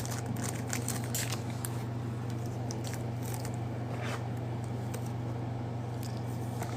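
Faint crinkling, crackling and clicks of trading-card packs and cards being handled, over a steady low electrical hum.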